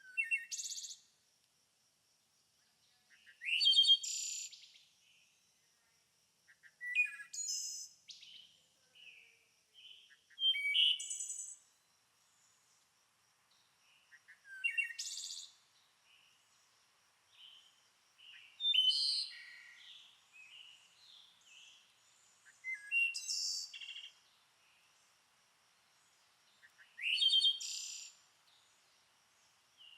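A songbird singing short, loud, complex phrases about every four seconds, with softer chirps between them and a faint steady high tone behind.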